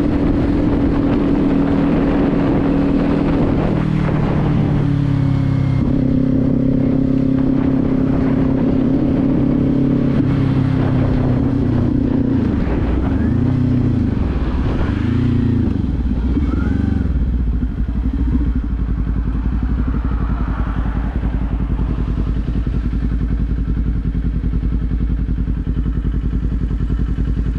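Kawasaki Z400's parallel-twin engine running at a steady speed, then revving up and down in pitch several times in quick succession around the middle, before settling to a lower, steady running note for the last third.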